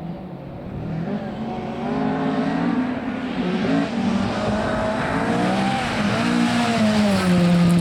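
Rally car engine approaching and growing steadily louder, its revs rising and falling several times as the driver works the throttle and gears.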